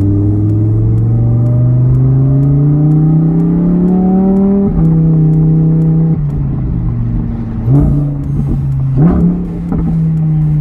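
Lamborghini Huracán Performante's V10 engine running loud, its pitch climbing slowly for the first few seconds and then dropping suddenly about halfway in. Two short, louder revs come near the end.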